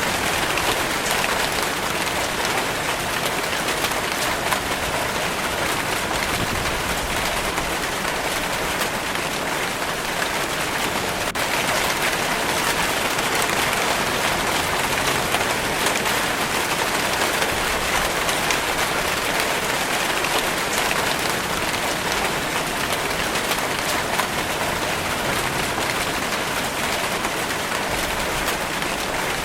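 Steady, heavy rainfall pattering on a surface, a dense even hiss of many drops.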